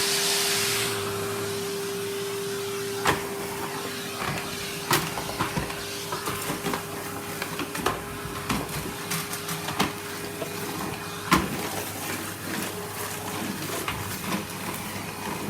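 Henry cylinder vacuum cleaner running with a steady motor whine, sucking up wood shavings that click and rattle through the hose every second or so, with a strong rush of air in the first second. Its bag is close to full.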